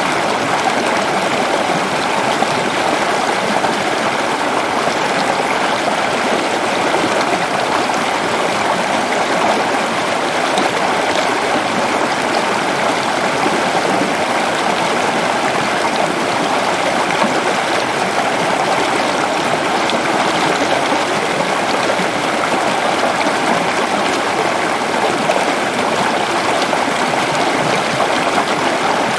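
Waterfall rushing steadily: a loud, even wash of falling water with no change in strength.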